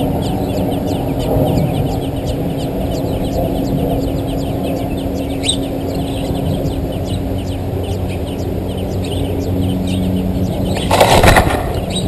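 Nestling American robins begging: high, thin calls repeated several times a second, over a steady low hum. A loud burst of rustling comes about eleven seconds in.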